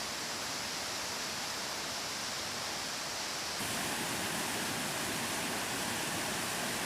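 Steady rush of falling or flowing water from a stream or waterfall, an even hiss; about halfway through it abruptly becomes fuller and deeper.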